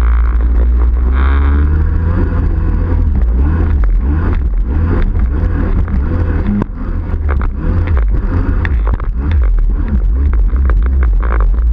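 Yamaha 701 two-stroke twin in a Waveblaster personal watercraft, fitted with a Riva expansion pipe, running under load with its revs rising and falling over and over.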